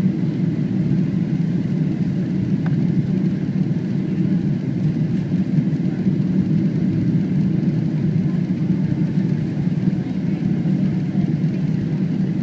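Steady low rumble of a Boeing 777's engines and airflow heard inside the passenger cabin.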